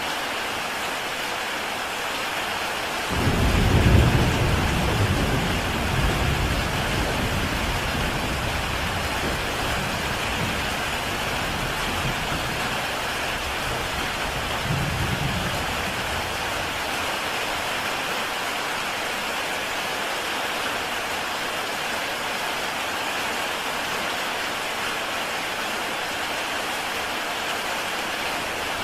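Heavy rain falling steadily on a tile roof, a dense even hiss. About three seconds in, a roll of thunder starts suddenly and rumbles for over ten seconds, swelling once more before it dies away.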